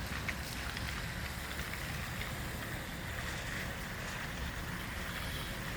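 Wind buffeting the phone's microphone in an uneven low rumble, over a steady outdoor hiss with a few faint ticks.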